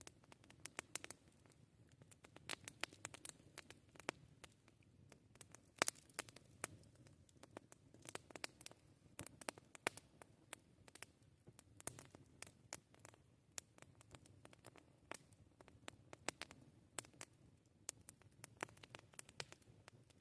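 Wood campfire crackling: many irregular sharp pops and snaps over a soft low rumble, with one louder pop about six seconds in.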